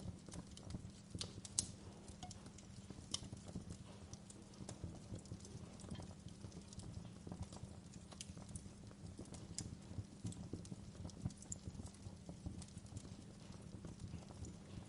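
Wood fire crackling in a fireplace: irregular snaps and pops over a low, steady rumble, with a sharper pop about a second and a half in.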